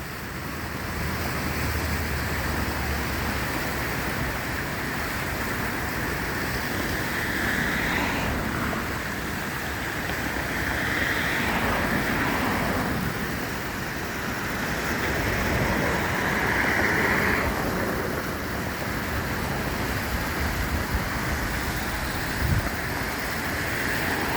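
Fast-moving floodwater rushing down a normally dry riverbed: a steady rush that swells and eases several times.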